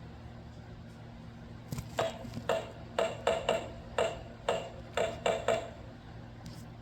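A sound book's small speaker plays a clip of about ten quick metallic clangs and dings, each ringing briefly. This is the book's sound for the Whos' Christmas noise.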